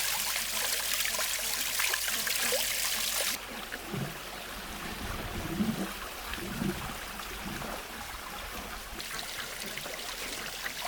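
Running water splashing and trickling steadily. It drops suddenly to a softer flow a little over three seconds in.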